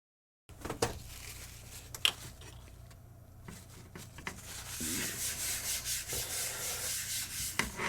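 A lint-free wipe rubbed back and forth over a circuit board to clean it after soldering. There are a few light taps first, then a steady run of quick scratchy strokes from about halfway in.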